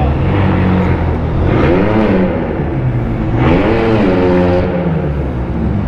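A vehicle engine idling and revved twice, the pitch rising and falling about two seconds in, then climbing again and holding for about a second before dropping.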